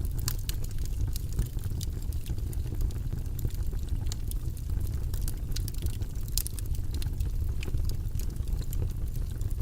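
Steady low, rumbling white-noise track, with light irregular clicks scattered through it.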